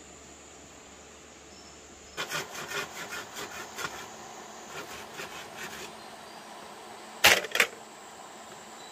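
A run of quick rasping strokes on wood, like sawing or scraping, for about four seconds, then two loud sharp knocks in quick succession.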